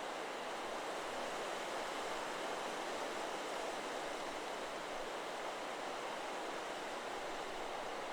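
Steady wind rushing through forest trees, a continuous even rustle of leaves with no chime strikes heard.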